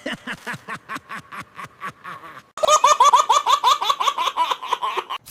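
A cartoon character's voice laughing in quick repeated bursts. The laughter turns louder and faster about two and a half seconds in.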